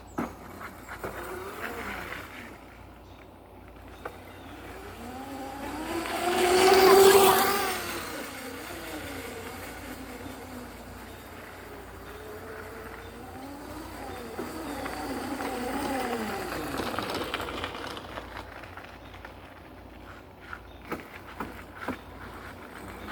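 A vehicle passes close by, swelling to a loud peak about seven seconds in and fading away. A second, quieter pass follows around fifteen seconds in.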